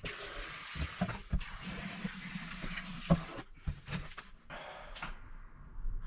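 Can of expanding foam hissing as foam is sprayed into gaps under a timber shower-tray frame, with a final short burst of hiss near the end. A few light knocks and clicks of the can and frame are heard along with it.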